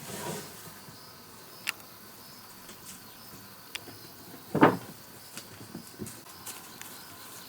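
One loud sharp knock a little past halfway through, with a few light clicks and taps before and after, over a faint steady background.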